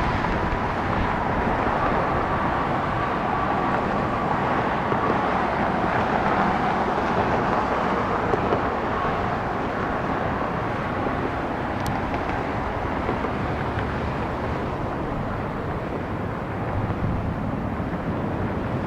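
Jet airliner engines: a steady rushing noise with a faint high whine in the first few seconds.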